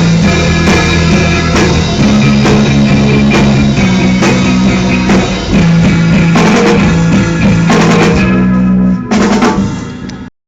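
Loud live rock band playing, with a drum kit (kick, snare and cymbal hits) over held low bass and guitar notes. Near the end it thins to a few last drum hits, then cuts off suddenly.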